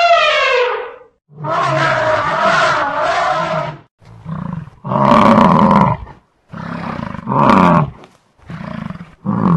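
A large animal roaring: one long roar, then a run of about six shorter roars with gaps between them.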